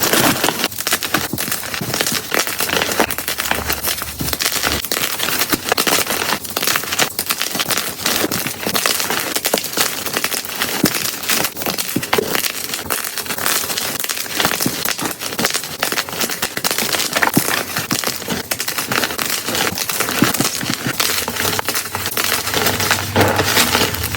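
Blocks of gym chalk being crushed, a dense, continuous run of crumbly crackles and crunches, played at double speed.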